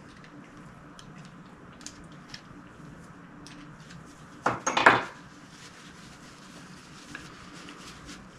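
A small metal part clattering a few times against a hard surface about halfway through, over faint rubbing and light clicks of handling.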